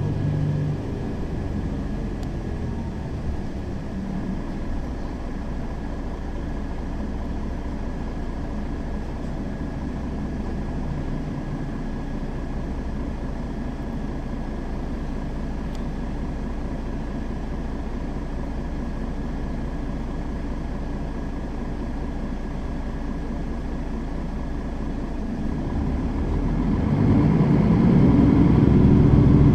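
Mercedes-Benz Citaro facelift city bus driving. Its engine drops in pitch in the first seconds, then runs steadily with road noise for most of the time. Near the end the engine gets louder and rises in pitch as the bus accelerates.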